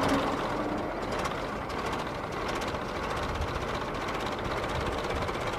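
1923 Ford Model TT truck's rebuilt 1926–27 Model T four-cylinder engine running steadily, having just caught on the electric starter.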